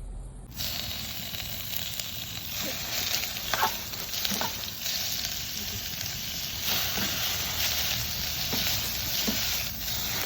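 Food sizzling in a frying pan, a steady hiss with a few small pops, starting suddenly about half a second in.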